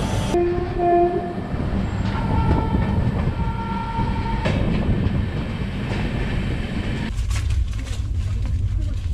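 Passenger train running with rumble and wheel clatter, with a train horn sounding in the first four seconds or so. About seven seconds in, the sound changes to the steadier rumble heard inside a moving coach.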